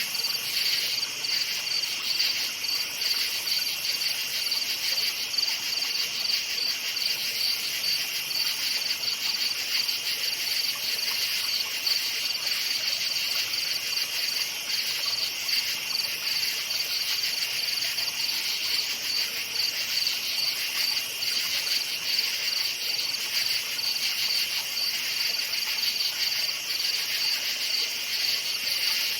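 A chorus of crickets chirping steadily: a dense, high-pitched trill with a fast pulse that never breaks.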